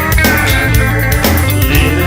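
Rock band playing an instrumental passage: an electric guitar line with held notes over bass and a drum kit beat.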